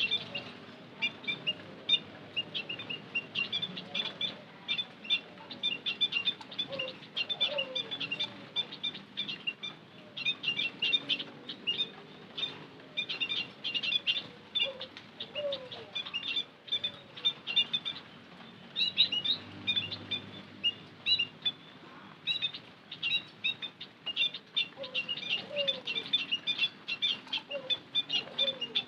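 White-headed munias (emprit kaji, bondol haji) calling: a steady stream of many short, high chirps overlapping one another without a break.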